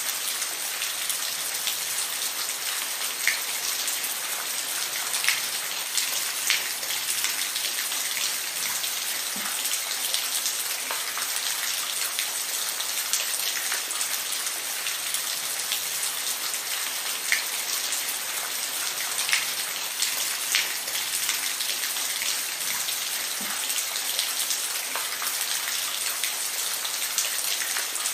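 Steady rain falling, an even hiss with scattered distinct drop taps on a surface. There is no thunder.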